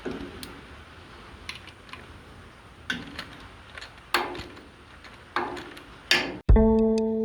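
Several sharp knocks and clicks, a few with a short ring, over a faint hiss. Electric guitar music comes in loudly about six and a half seconds in.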